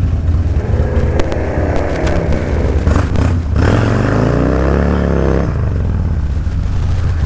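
Motorcycle engine running hard and revving, its pitch sweeping up and back down about four to five seconds in, during a J-turn attempt.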